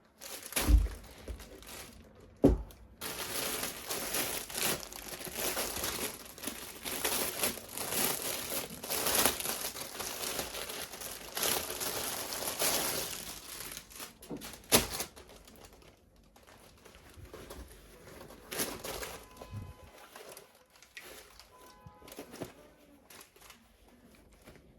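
Plastic packaging crinkling and rustling in long spells as toys are unwrapped, with a few sharp knocks from the items being handled: two near the start and one about fifteen seconds in.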